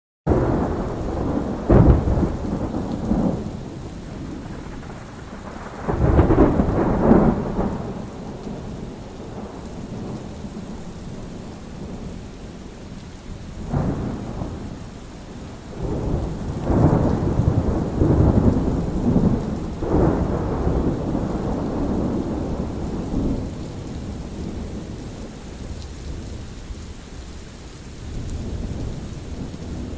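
Thunderstorm: steady rain with repeated rolls of low thunder, the loudest cracks and rumbles about two seconds in, around six to seven seconds, and again from about fourteen to twenty-one seconds.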